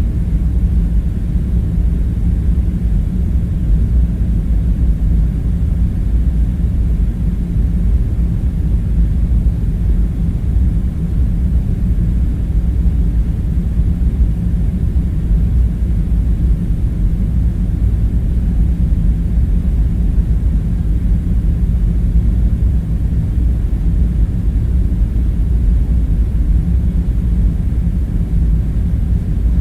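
Steady deep rumbling drone of a background ambience bed, with a faint low hum in it and no distinct events.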